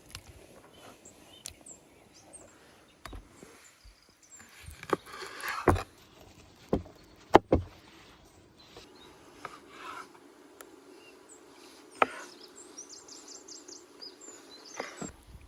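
Scattered sharp knocks and taps of kitchen work on a wooden surface while meat is prepared by hand. The knocks cluster around the middle, with a rustle among them. Faint high chirps come near the end.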